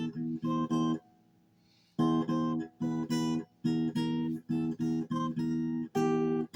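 Acoustic guitar strummed in short rhythmic chord strokes, several a second, with a pause of about a second near the start before the strumming resumes.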